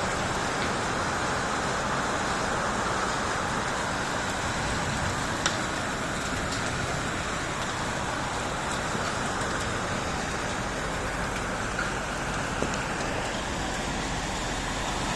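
Steady rain falling, an even hiss with a couple of sharper drop taps.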